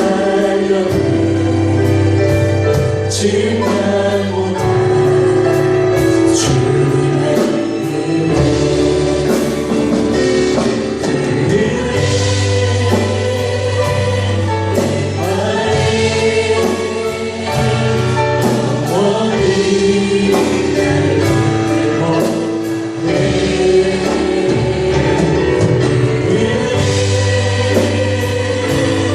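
Worship music: a choir singing in chorus over band accompaniment with a bass line and a steady beat.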